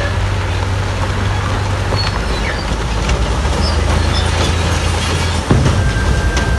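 Heavy diesel earthmoving machinery running steadily under load, a deep engine drone with scattered clanks and a thump about five and a half seconds in.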